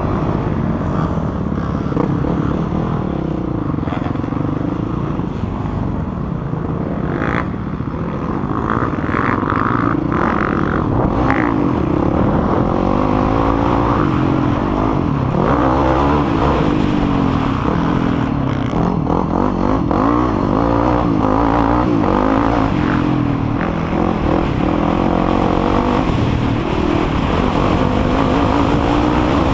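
Quad (ATV) engine revving hard around a motocross track, its pitch rising and falling again and again as it accelerates out of corners, changes gear and backs off.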